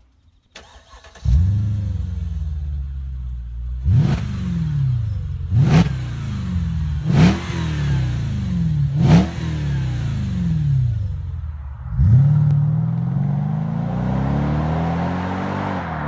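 Mercedes-Benz W212 E500's V8 through RCP aftermarket rear mufflers: it starts about a second in and settles to idle, then is blipped four times in quick revs. Near the end it surges again sharply and the pitch climbs steadily.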